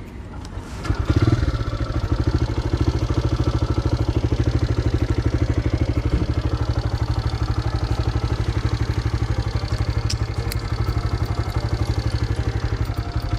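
TVS Raider 125's single-cylinder engine starting about a second in and then idling steadily with an even, rapid pulse.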